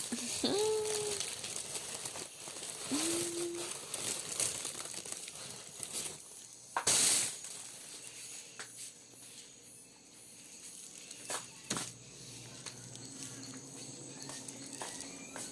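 Plastic wrapping crinkling and rustling as a bonbon is taken out of a gift basket, with one louder rustle about seven seconds in. Two short pitched vocal sounds come near the start.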